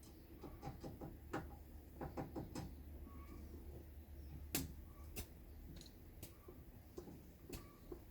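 Scattered light clicks and knocks at an irregular pace, the sharpest about four and a half seconds in, over a faint steady low hum.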